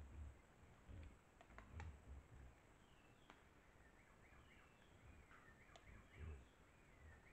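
Faint forest ambience: a bird gives a rapid series of short chirps from about three seconds in, over soft low thumps and a few light clicks.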